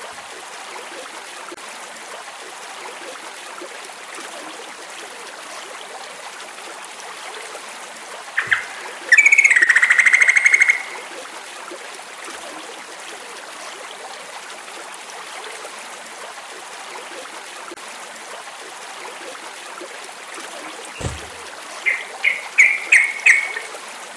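Yellow-vented bulbul (trucukan) singing two short bouts of rapid chirps, about 9 seconds in and again near the end, over a steady stream-like hiss of nature background.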